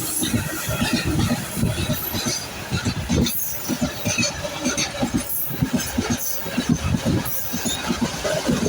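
Freight train wagons rolling past, their wheels knocking over the rail joints in a quick, irregular clatter, with rumble and squeal from the running gear.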